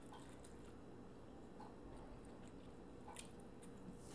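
Faint chewing with wet mouth sounds and a couple of soft clicks, about three seconds in and near the end, over quiet room tone.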